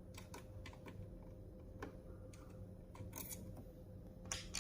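Scattered faint clicks and taps of small hand tools and plastic parts as a sewing machine is opened up, over a low steady hum.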